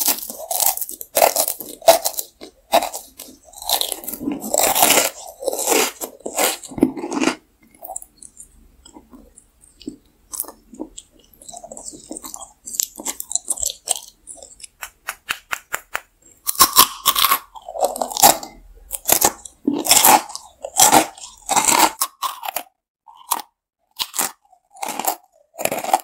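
Close-miked biting and chewing of a chocolate disc studded with candy-coated chocolates, with crisp crunching from the candy shells. The crunching goes quiet and sparse in the middle, then comes back loud in quick bites and chews.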